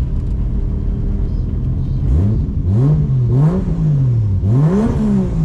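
Drift car engine over a steady low rumble; about two seconds in it begins revving, its pitch climbing and dropping several times as the throttle is blipped and released.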